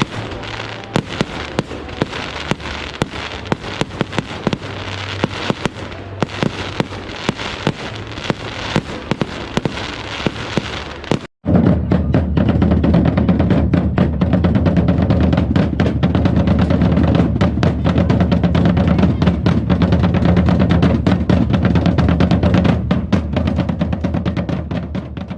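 Fireworks display: a rapid stream of cracks and bangs. About eleven seconds in there is a sudden cut to a louder, denser barrage with a heavy rumble underneath, which fades near the end.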